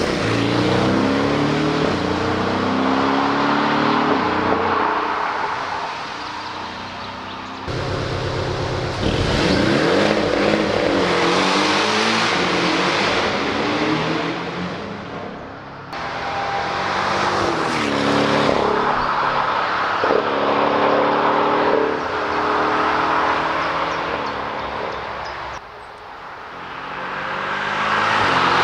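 Porsche 718 Cayman GTS engine and exhaust under hard acceleration, rising in pitch and dropping back at gear changes, over several separate runs. The sound fades and swells between the runs.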